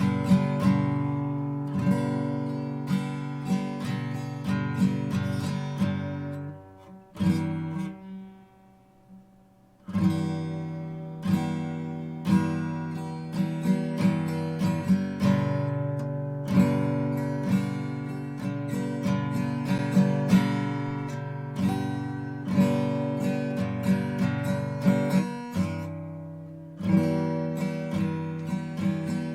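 Art & Lutherie Wild Cherry acoustic guitar with extra-light strings, strummed chord by chord in a steady rhythm. About a quarter of the way in the playing stops and the chord rings away to near silence for a couple of seconds before the strumming starts again.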